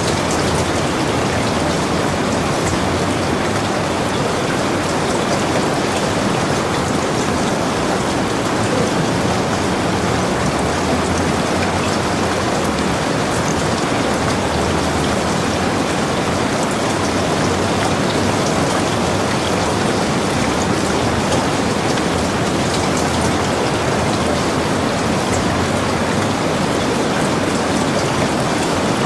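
Heavy rain falling steadily: a dense, even hiss with scattered drops ticking through it.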